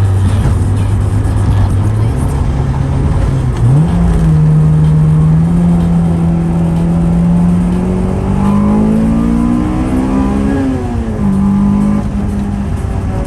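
Honda Integra four-cylinder engine pulling under acceleration while driving: its note jumps up about four seconds in, holds steady, then climbs and drops back near the end at a gear change.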